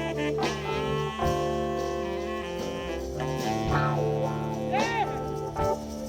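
Live band playing an instrumental break: electric guitar and horn section over bass and drums, with a note bending in pitch about five seconds in.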